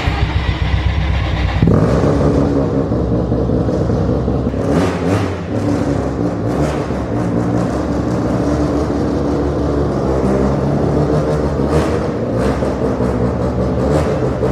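Carburetted drift kart engine running loudly. Its revs step up about two seconds in and it is blipped a few times after that.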